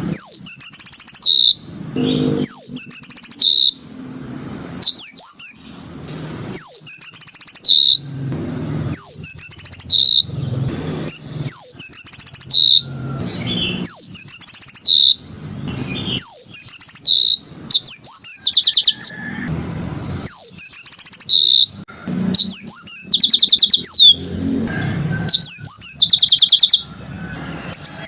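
Yellow-fronted canary (Mozambique canary) singing: loud, repeated short phrases of high chirps and fast trills about every second, over a thin, steady, high note.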